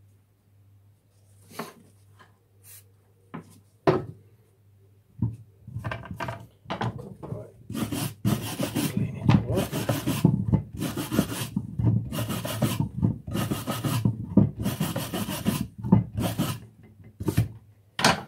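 A hand tool scraping or filing across lead in repeated back-and-forth strokes, about one to two a second, starting about five seconds in after a single sharp knock.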